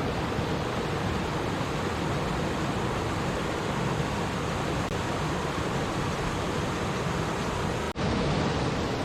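Stream water running and babbling steadily. It cuts out for an instant about eight seconds in, then carries on slightly louder.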